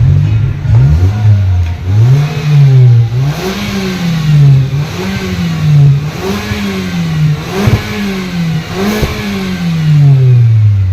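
MG5's 1.5-litre four-cylinder engine being revved through newly fitted dual HKS medium can free-flow mufflers. The throttle is blipped several times, the exhaust note rising and falling with each rev.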